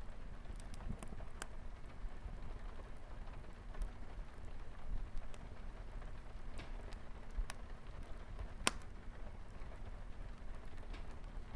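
Light rain pattering on a window with a fireplace crackling, sharp pops and ticks scattered through a steady hiss, the loudest pop near the end.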